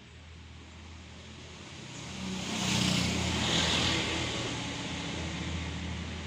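A motor vehicle's engine running, growing louder about two seconds in, loudest around three to four seconds, then holding a steady hum.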